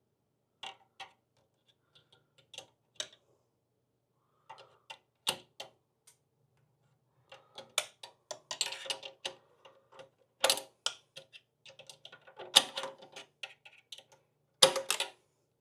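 Irregular clicks, taps and clattering from tools and parts being handled while working on a motorcycle, with a few louder knocks.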